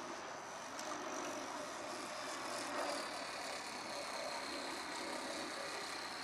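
Small electric 370 motor and propeller of a radio-controlled trainer plane in flight, a faint high whine that drifts slightly lower in pitch over a steady hiss.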